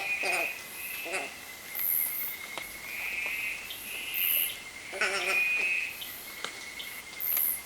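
Short pitched animal calls, a few times (near the start, about a second in and about five seconds in), from an unidentified animal that local people take for a sugar glider. Behind them, a steady chorus of buzzing insect trills, a thin steady high whine and very high chirps repeating every second or two.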